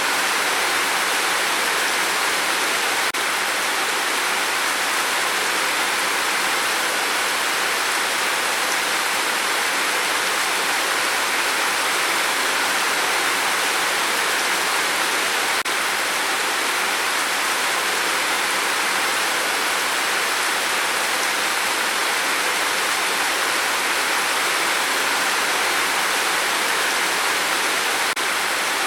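Steady heavy rain on a tin roof: a dense, even hiss of countless drops with no distinct single strikes.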